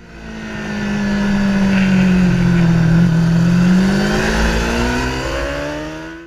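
Motorcycle engine running; its pitch dips over the first few seconds, then climbs again as the revs rise. The sound swells in at the start and fades out at the end.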